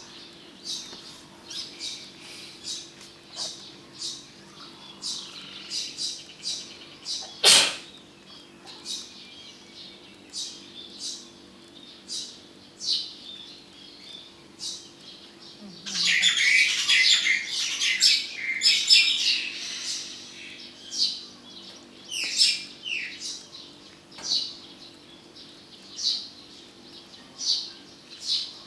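Small birds chirping over and over in short, high notes, with a burst of busy chirping about 16 seconds in. There is a single sharp click about 7 seconds in, and a faint steady low hum underneath.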